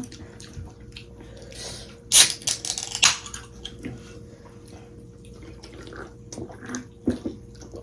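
Close-up wet eating sounds as beef momos and chicken soup are eaten: slurps, smacks and small clicks, with the loudest burst about two seconds in.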